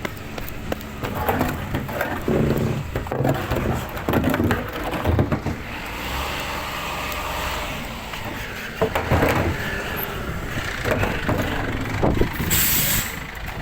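Glass-collection truck running, with many sharp knocks and clatters over its rumble and a short hiss about a second before the end.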